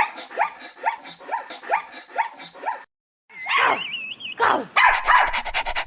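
A dog barking in a rapid run of short barks, about four a second, for about three seconds. After a brief break, a wavering high-pitched tone and then fast, even pulses.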